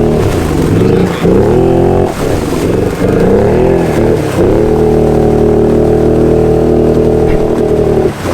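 Can-Am Outlander ATV engine revving hard in repeated bursts, about one a second, then held steady at high revs before dropping off near the end, as the quad sits bellied out in deep mud trying to break free.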